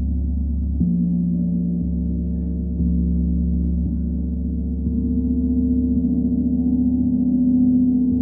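Deep, sustained ringing tones of sound-bath instruments, layered over one another. New tones come in about a second in and again near three seconds, and from about halfway a slow wavering pulse runs through the sound.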